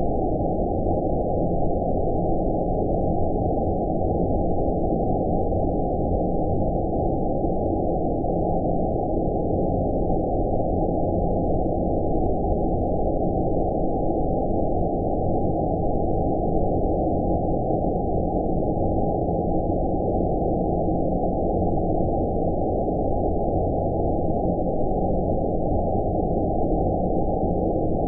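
Synthetic 'outer space' sleep noise: a steady, deep, muffled rush of noise with no high hiss, unchanging throughout.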